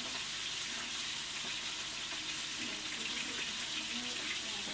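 Food frying in a pot with a steady sizzle.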